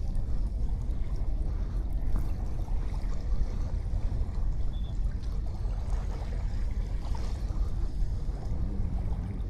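Sea waves washing on a sandy beach: a steady rush of water with a deep rumble underneath, and a brief faint high note about five seconds in.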